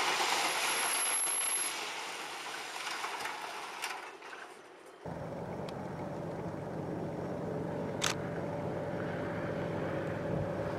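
Trains running: a rushing noise that fades away over the first few seconds, then, after a sudden change, a steady low drone with a few sharp clicks.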